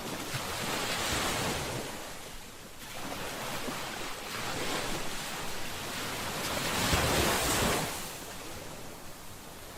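Ocean waves breaking and washing on a shore: two surges of surf, a shorter one near the start and a longer, louder one peaking about seven seconds in, each ebbing away afterwards.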